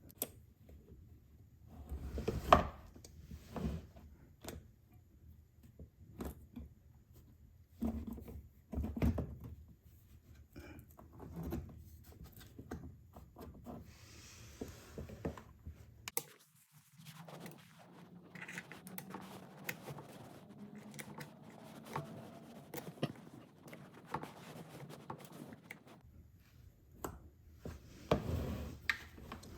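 Hand work on the chain tensioner of an unplugged, partly disassembled Portland electric chainsaw: scattered clicks, knocks and rubbing of tools against the plastic and metal parts as the chain is tightened. The sharpest knock comes about two and a half seconds in.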